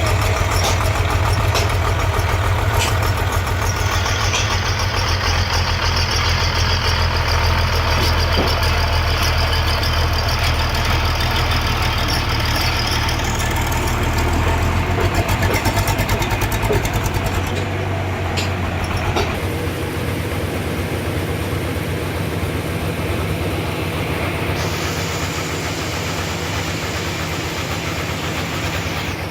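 Sawmill running with a steady low engine drone, cutting a trembesi (rain tree) log into boards. A high hiss rises over it for two stretches of several seconds, the second starting near the end. The low drone changes pitch about two-thirds of the way in.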